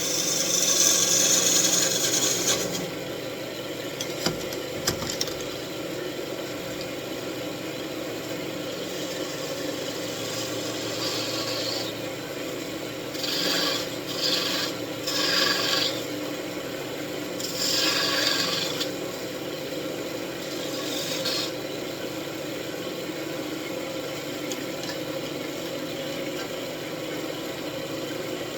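Wood lathe running with a steady hum while a turning tool cuts the spinning wooden wand blank in several short scraping passes, the longest at the start, with a few sharp clicks about four to five seconds in.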